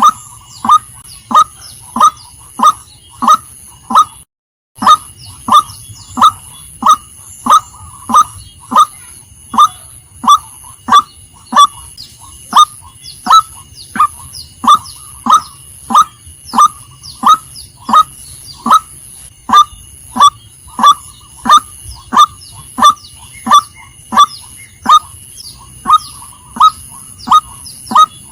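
Female white-breasted waterhen calling: one short, slightly falling note repeated steadily about one and a half times a second, with a brief break about four seconds in.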